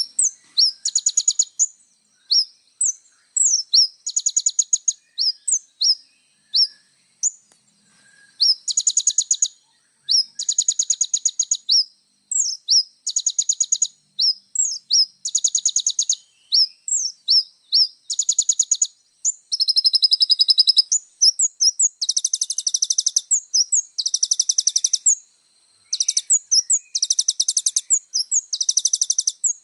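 Kolibri ninja sunbird singing, fast high-pitched trills in bouts of a second or two, broken up by short sharp chirp notes, over and over.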